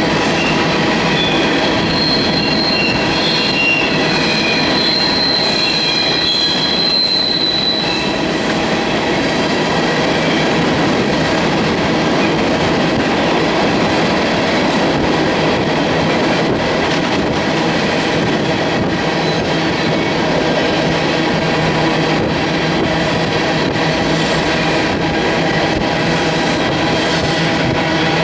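Freight train of grain cars rolling past, a steady loud noise of steel wheels on the rails, with a high wheel squeal that fades out about eight seconds in.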